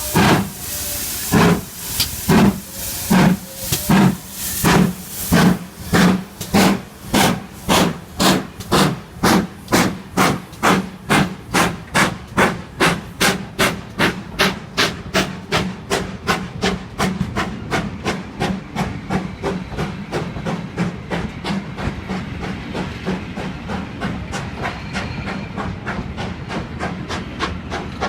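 GWR Manor class two-cylinder 4-6-0 steam locomotive pulling away from a standstill, its exhaust chuffing loud and evenly. The beats quicken from under two a second to a rapid patter as the engine gathers speed. Past the middle they fade and blur into a steady rush as it draws away.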